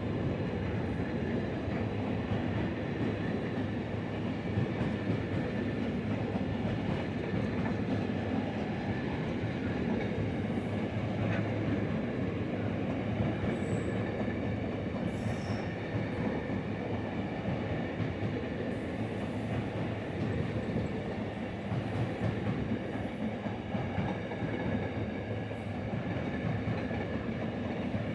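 Freight train hauled by Class 66 locomotive 66108 rolling steadily past, its wagons' wheels rumbling and clattering on the rails with a faint, steady wheel squeal.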